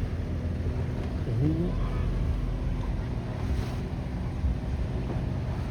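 Boat engine running steadily underway, a continuous low rumble with some water and wind noise. A brief rising tone comes about a second and a half in.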